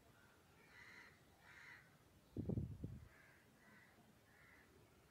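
Faint bird calls repeating in the background, short calls about every half second, with a brief low muffled thump about two and a half seconds in.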